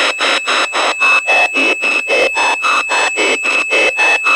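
Spirit box radio sweeping through stations, giving choppy bursts of static about five times a second, with a steady high whine running under the sweep. The whine is the unfamiliar noise from the box.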